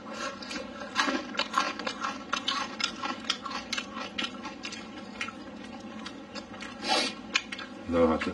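Close-up eating sounds: moist chewing and smacking, several short clicks a second, mixed with wooden chopsticks scraping and tapping in a ceramic bowl. A louder thump comes near the end.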